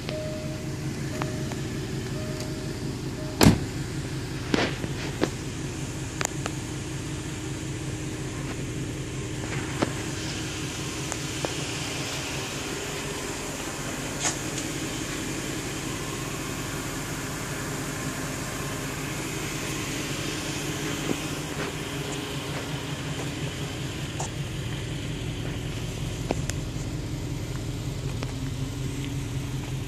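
2009 Jaguar XF engine idling steadily. In the first few seconds a repeating beep tone sounds, stopping at a loud knock about three and a half seconds in. A few quieter clicks and knocks follow.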